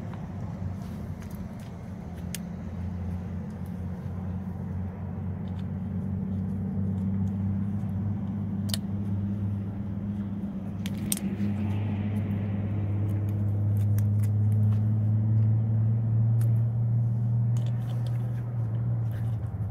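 A vehicle engine running steadily with a low hum, growing louder toward the last few seconds and then easing off, with a few sharp metallic clicks on top.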